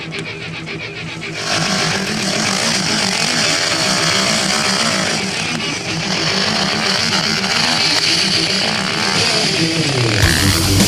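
Motocross bikes racing, their engines revving up and down, getting louder about a second and a half in. Loud rock music cuts in near the end.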